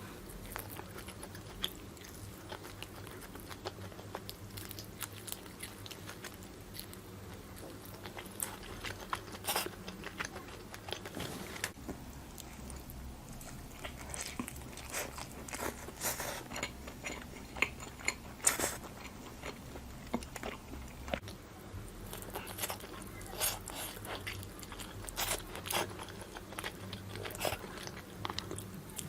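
Close-miked eating of grilled barbecue food: chewing with short crunchy bites and mouth clicks, sparse for the first several seconds and more frequent in the second half.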